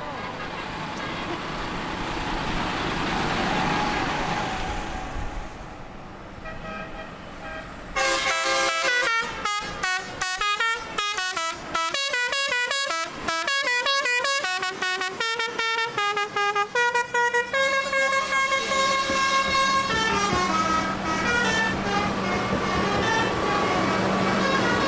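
Vehicle engine noise swells and fades as vehicles pass. Then, about eight seconds in, a loud vehicle horn begins sounding a run of changing notes like a tune. Later it moves to longer held tones with some falling slides.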